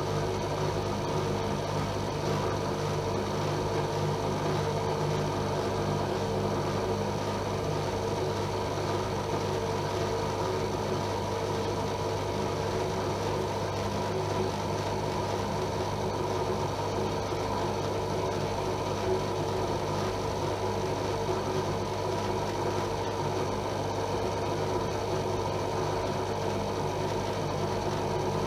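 AEG Öko-Lavamat Lavalogic 1600 washing machine running with a steady, unbroken motor hum.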